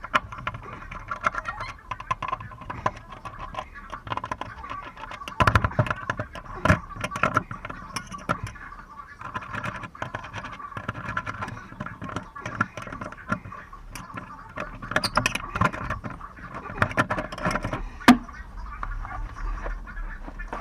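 Irregular clattering knocks, clicks and scrapes of tools and parts being handled, with indistinct voices in the background.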